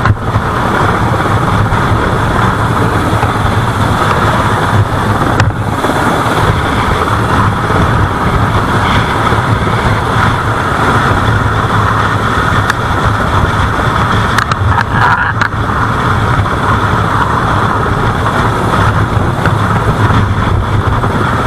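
Boat engine running steadily, a low hum under a constant rush of noise.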